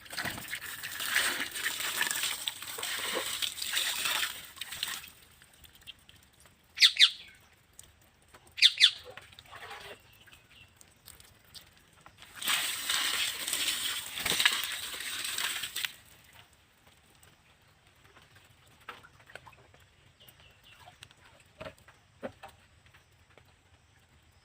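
A parrot bathing: two bouts of splashing and wing-flapping in water, with two short, loud calls between them, then only faint light ticks and taps.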